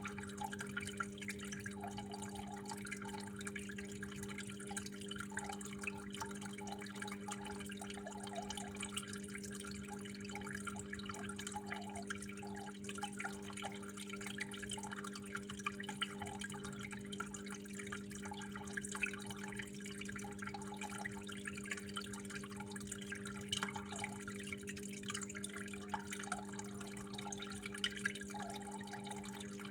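Water flowing and dripping steadily in a constant patter of small splashes, over a low steady hum.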